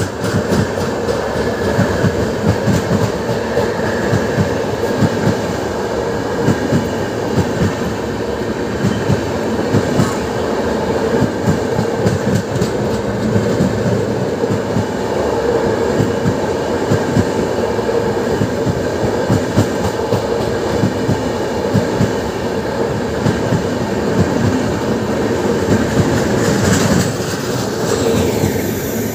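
A passenger train's coaches rolling past at close range: a loud, steady rumble of wheels on rail with rapid clickety-clack over the rail joints.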